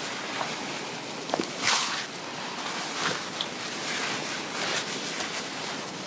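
Fabric rustling and rubbing as the garment is handled and adjusted, with a few soft brushing swells and small clicks.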